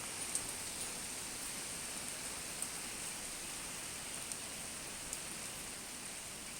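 Steady rain falling on a boat at sea: an even hiss with a few scattered sharp ticks of drops striking nearby.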